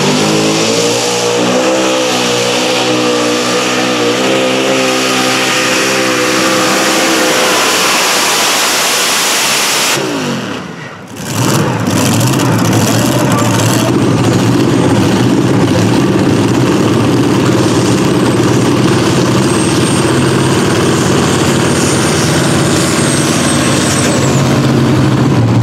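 Competition pulling vehicle's engine running at full throttle under load, its pitch climbing over the first few seconds. The sound drops away briefly about ten seconds in, then another engine runs steadily at full power with a thin high whistle over it.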